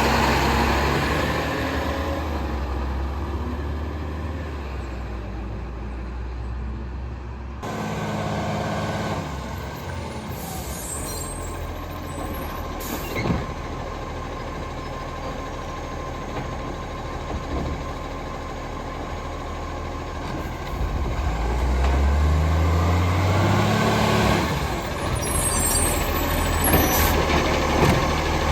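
Garbage truck engine running, with short hisses of air brakes and the engine revving up and getting louder about three quarters of the way through.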